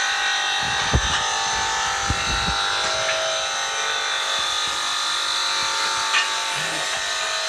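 High-speed tile and stone cutting machine running with a steady high-pitched motor whine, with a few light knocks.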